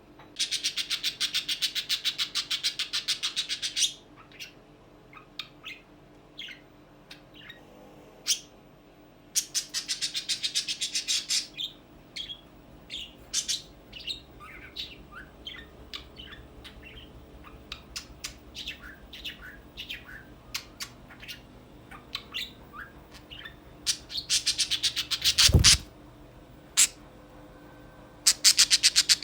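Pet budgerigar chirping and warbling, with several bursts of fast, rattling chatter lasting a few seconds each and short chirps between them. A single sharp knock sounds near the end.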